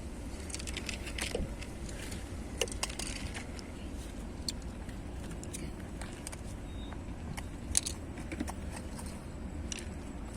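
Scattered light metallic clicks and clinks over a steady low rumble, with a sharper click about two and a half seconds in and another near eight seconds.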